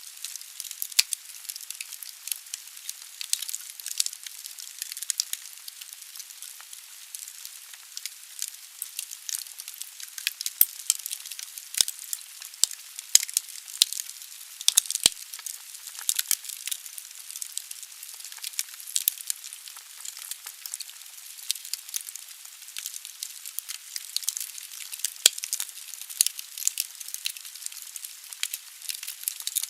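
Firewood burning in a fireplace: dense, irregular crackling and popping of the burning logs over a steady high hiss of the fire.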